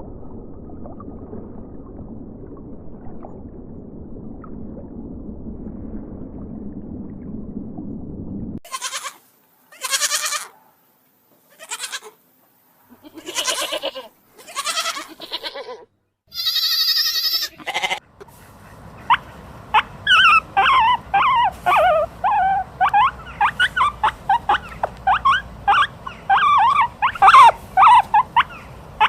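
A string of different animal sounds. A steady low noise runs for about eight seconds. Then come several goat bleats, a short high call, and a long run of rapid short chirping calls over a low hum.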